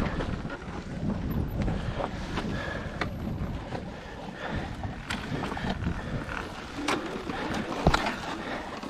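Wind buffeting the microphone over the rumble and rattle of an electric dirt bike riding a rough trail, with sharp knocks from the bike jolting over the ground every second or two, the loudest near the end.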